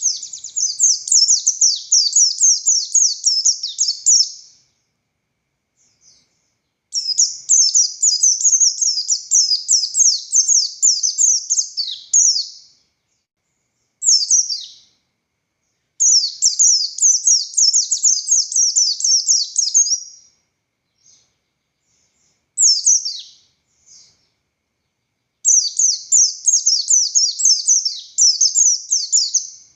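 A buxtoni white-eye (pleci) singing in long bursts of rapid, high twittering notes. Four long runs of several seconds each come with short pauses between them, and a couple of brief single calls fall in the gaps.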